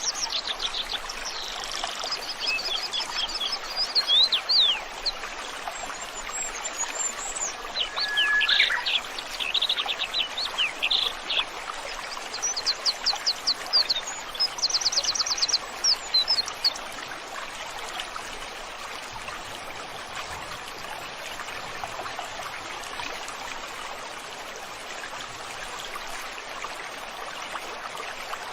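Songbirds singing over a steadily running stream: quick chirps and rapid trills for roughly the first half, then only the even rush of the water.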